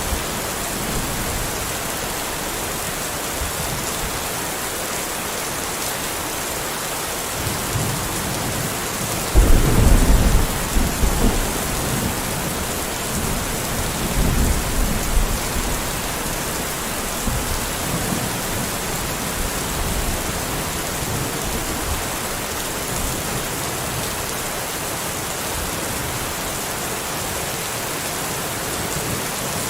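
Steady heavy rain, with a rumble of thunder about a third of the way in and a fainter rumble a few seconds later.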